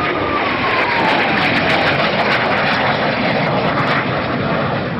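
Aircraft engine noise from a fixed-wing aircraft flying past, a loud, steady rush with a whine that falls in pitch over the first second or so as it passes.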